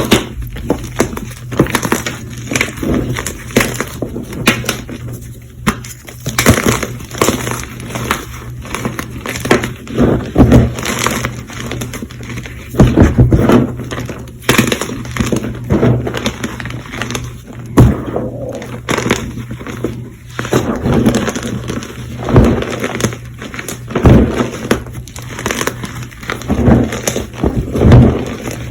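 Fresh, semi-squeaky block of Colift gym chalk being crushed and crumbled, a dense run of irregular crunches and crackles with stronger crunches every second or two.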